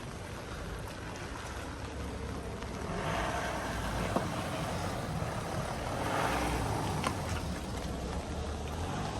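Motor traffic passing on a wet street in rain: two vehicles swell up and fade, about three and six seconds in, over a steady low rumble and rain hiss.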